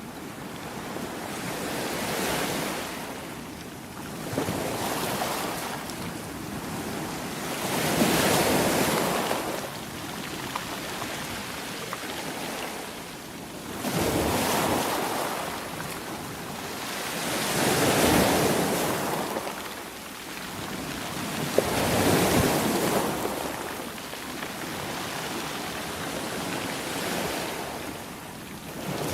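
Sea waves surging and washing in, one after another, each swell of rushing water rising and falling back every few seconds.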